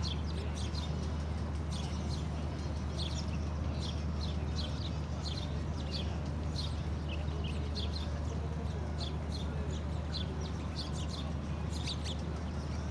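Birds chirping: many short, high chirps in quick succession, over a steady low hum.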